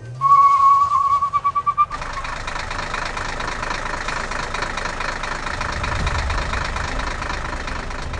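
Cartoon vehicle engine sound effect running steadily. It starts after a warbling, pulsing held tone in the first two seconds.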